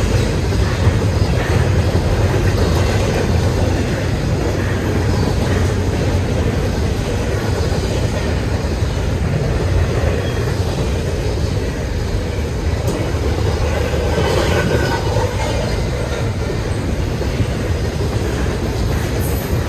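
Freight train rolling past at close range, a steady loud rumble of wheels on the rails.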